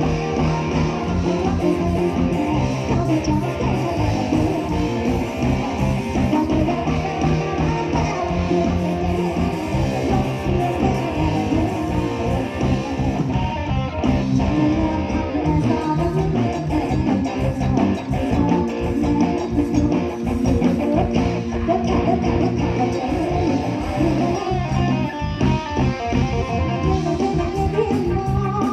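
Live band playing an instrumental passage: electric guitar over bass and a steady, fast drum beat.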